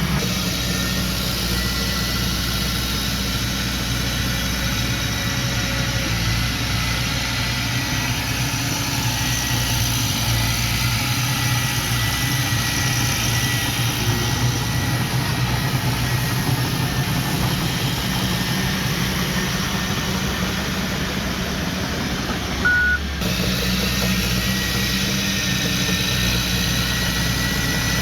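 Heavy construction machine's diesel engine running steadily with a faint high whine, and a single short reversing beep about 23 seconds in.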